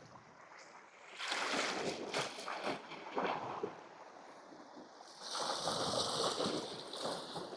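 Sea waves washing against coastal rocks, two surges a few seconds apart.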